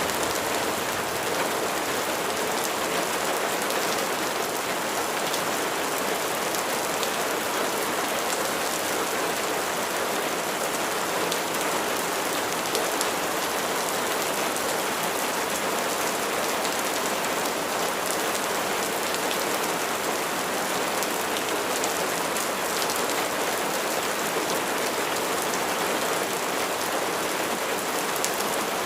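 Steady rain falling on surfaces, an even hiss with faint scattered drop ticks.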